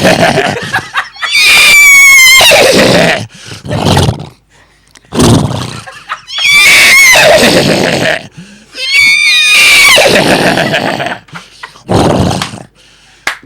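A man's voice imitating a horse, giving a series of loud whinnies with wavering, sliding pitch, several of them long, with short gaps between.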